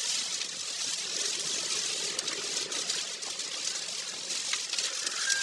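Steady rushing of water, a constant even hiss with no breaks, from a river running high.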